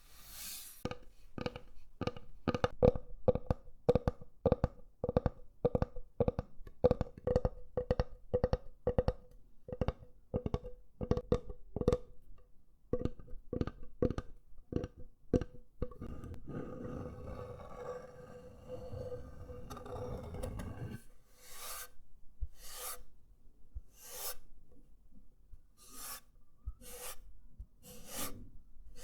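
Wooden ASMR trigger objects worked close to the microphone. First comes a quick, even run of rasping strokes on wood, about two to three a second, with a ringing note under them. After a pause there are a few seconds of continuous rubbing, then slower, sharper swishes about once a second.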